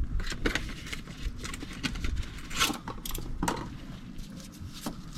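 Handling noises: a string of light scrapes, rustles and clicks at irregular moments, the sharpest about half a second, two and a half and three and a half seconds in, as parts are picked up and turned over by hand.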